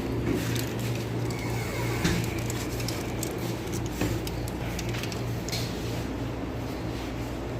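Restaurant interior ambience: a steady low hum with scattered small clicks and rustles over it.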